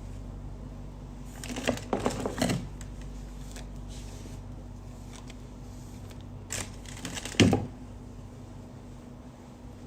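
Two short bursts of clattering and rattling from small objects being handled, about two seconds in and again about seven seconds in, over a steady low hum.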